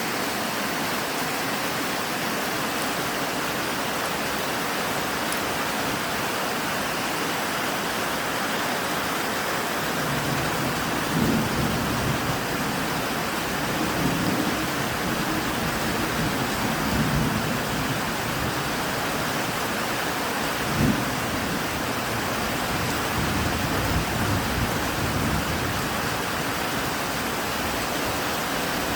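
Steady rain falling, with thunder rumbling low in several rolls from about a third of the way in and one sharper clap about two-thirds of the way through.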